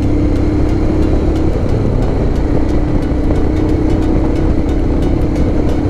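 Motorcycle engine running at a steady highway cruising speed, its pitch holding nearly constant, under heavy low wind and road rumble.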